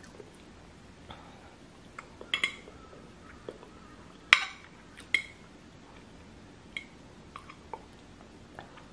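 Metal fork clinking and scraping against a plate while twirling noodles: a few scattered sharp clinks, the loudest about four seconds in.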